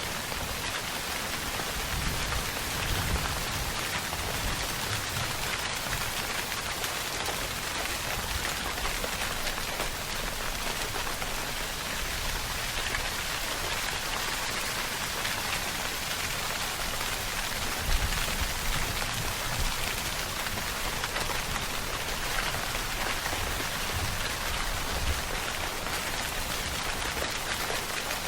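Steady heavy rainfall, an even hiss of drops on surfaces, with a couple of brief low rumbles, one a few seconds in and another about two-thirds of the way through.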